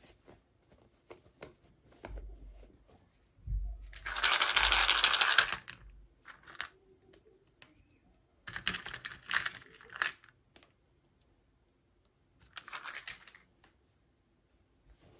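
Toy packaging being handled and opened by hand: small clicks and taps, with three bursts of rustling. The longest and loudest burst comes about four seconds in, and a low thump or two comes just before it.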